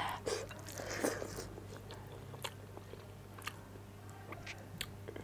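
A person chewing and biting food close to the microphone, with short sharp mouth clicks and smacks scattered through.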